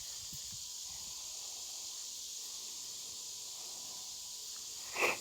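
Outdoor insect chorus, a steady high-pitched hiss and buzz with no pauses. A short louder sound breaks in once near the end.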